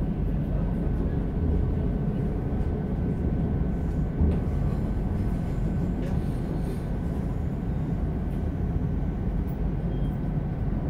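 Steady running rumble of a moving passenger train, heard from inside the carriage, with a faint steady high whine. There is one short knock about four seconds in.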